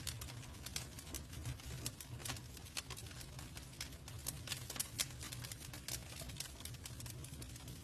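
Campfire burning: wood crackling with many irregular small snaps and pops, several a second, over a low steady rumble.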